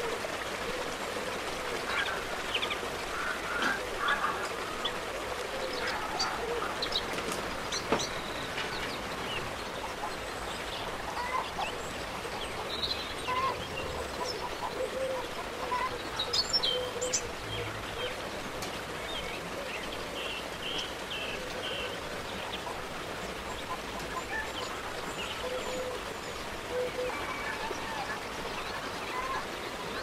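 Birds chirping and calling at scattered moments over a steady background hiss.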